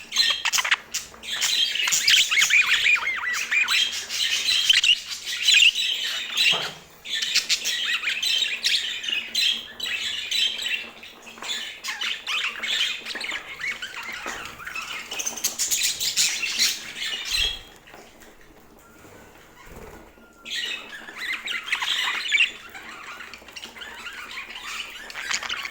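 Budgerigars chattering and squawking in a dense, busy warble, with a short lull about two-thirds of the way through.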